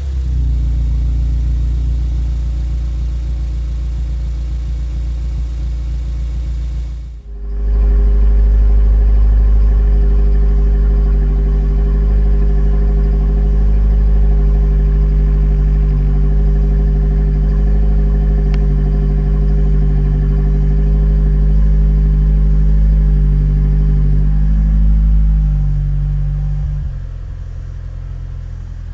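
Mazda2 hatchback's four-cylinder engine idling steadily through a custom double-wall free-flow bolt-on muffler, a loud, even low exhaust hum. The sound breaks off briefly about seven seconds in. Near the end the idle steps down to a lower, quieter note.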